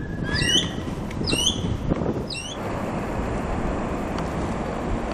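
A wild bird giving three short, high calls about a second apart, over a steady background hiss.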